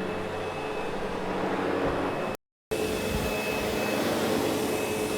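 Sebo X8 upright vacuum running steadily over carpet, a constant motor-and-airflow rush with a steady whine. The sound cuts out completely for a split second about two and a half seconds in, then carries on unchanged.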